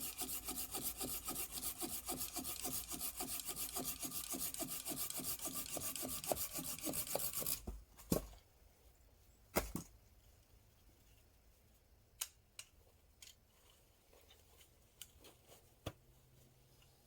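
Hand saw cutting through wood with quick, even back-and-forth strokes. The sawing stops about seven and a half seconds in, followed by a couple of knocks and a few faint clicks.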